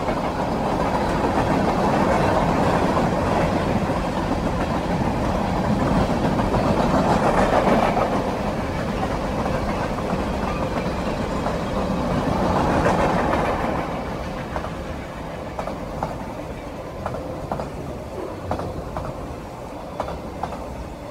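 Freight train cars rolling past at speed: a steady rumble of steel wheels on rail that swells and fades several times as covered hoppers go by. It eases about two-thirds of the way through, leaving sharp clicks of wheels passing over rail joints as autorack cars follow.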